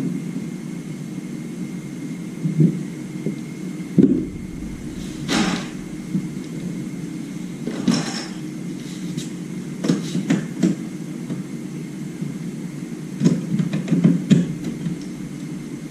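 Scattered knocks and clicks, a few at a time, over a steady low hum.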